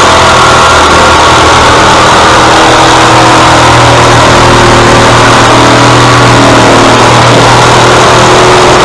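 Small gasoline engine of a piece of outdoor power equipment running loud and steady close by, its pitch holding nearly even throughout.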